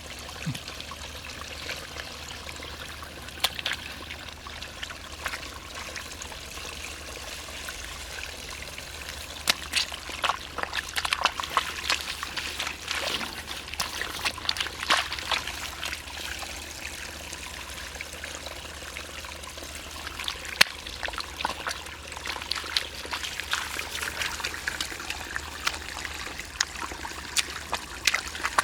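Water trickling steadily in a flooded rice field, with many small splashes and clicks coming in clusters.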